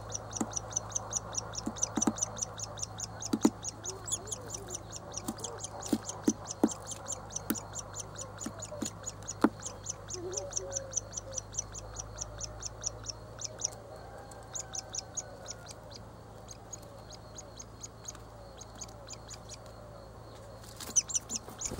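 Woodpecker nestling begging from the nest hole: a fast, even run of short high chirps, about five a second, that breaks off briefly twice. Several sharp taps sound over the calls in the first half.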